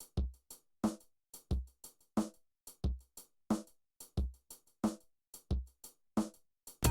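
Background music: a drum-machine beat playing on its own, with short kick and snare hits about three a second and silence between them.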